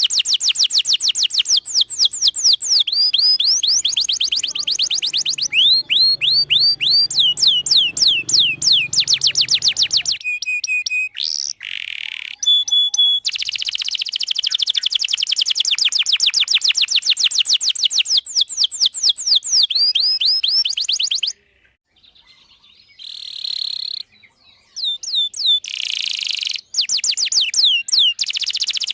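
Domestic canary singing long, rapid trills of quick high down-slurred notes, changing tour every few seconds, with a brief pause about three-quarters of the way through.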